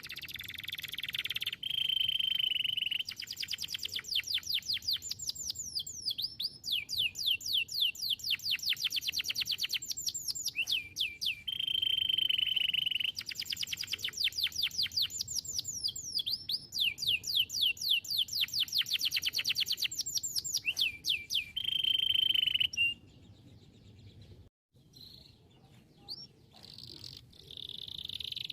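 Domestic canary singing: fast trills of quick falling notes alternate with held, even whistles, in phrases that repeat over and over. The song drops away to faint notes for the last few seconds.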